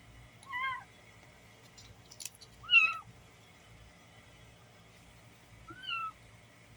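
Kittens meowing: three short, high meows spread through the moment, the middle one the loudest, with a sharp click just before it.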